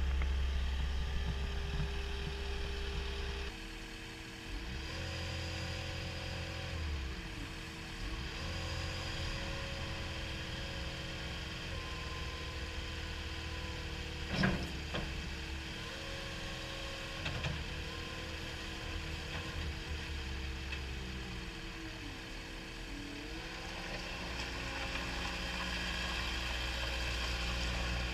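CAT 242D skid steer loader's diesel engine running steadily, its low note dropping a few seconds in. Whining tones fall and rise several times as the machine is worked, and a sharp knock comes about halfway through, with a lighter one a few seconds later.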